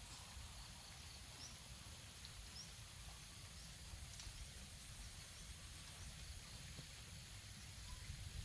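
Faint rural outdoor ambience: a low wind rumble on the microphone, a steady thin high-pitched hum, and a few short faint bird chirps.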